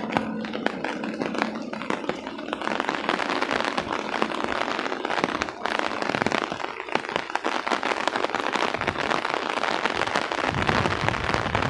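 Rain falling, a dense crackle of drops striking close to the microphone, thickening about two and a half seconds in.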